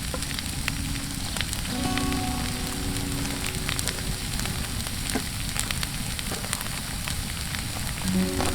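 Sausages, onions and peppers sizzling in a Muurikka frying pan over a campfire: a steady frying hiss with scattered small pops and spits.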